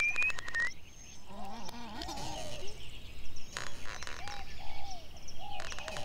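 Birds chirping and calling in open countryside: short rising-and-falling calls repeat again and again, with higher chirps and a few brief rattling trills.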